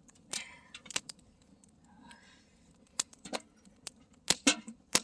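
Wood campfire crackling, with sharp, irregular pops and snaps and a quick cluster of louder ones near the end.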